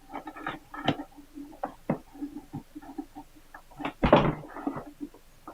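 Handling noise from battery cables and terminal hardware being fitted: scattered small clicks and taps, with a louder clunk about four seconds in.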